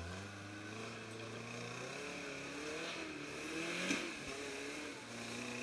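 Off-road 4x4 engine revving under load as the vehicle climbs a steep dirt slope. Its note rises and falls, with a sharp loud peak about four seconds in.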